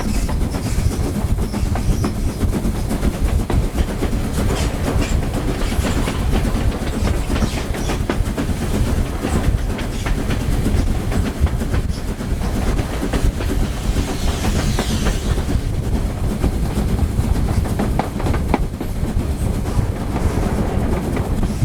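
Heritage railway carriage running along the track: a steady deep rumble with the click of wheels over rail joints. A brief high squeal comes about fourteen seconds in.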